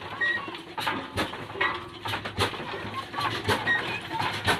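Old Ruston & Hornsby diesel engine firing slowly as it starts: heavy knocks about once a second that come gradually closer together as it picks up speed, over a low hum. Birds chirp throughout.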